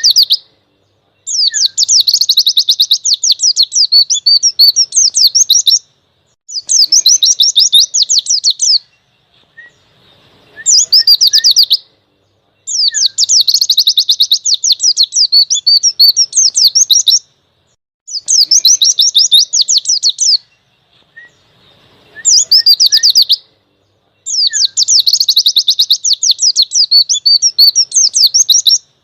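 White-eye (pleci) singing in long bouts of rapid, high chattering trills, each lasting a few seconds, with short pauses between them.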